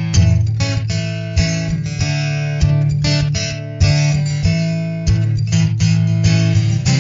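Instrumental music: repeated strummed acoustic guitar chords, with no singing.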